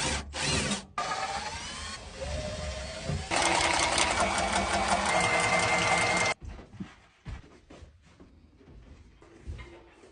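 A small motor, like a power tool's, running in several separate stretches that start and stop abruptly, loudest in the middle, followed by quieter scattered clicks and knocks.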